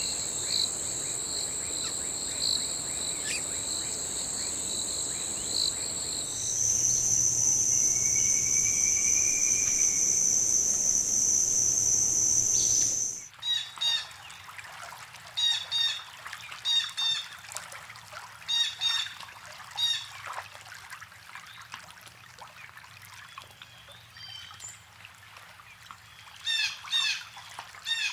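Rainforest insects buzzing steadily in high continuous tones, which shift to a louder single tone about six seconds in. About halfway through they cut off abruptly, and birds take over with repeated short chirping calls in quick clusters.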